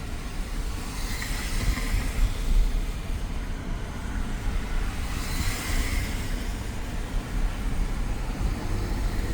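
Steady road and wind noise inside a moving Tesla Model X with a window open: a low tyre rumble under a hiss of wind that swells twice.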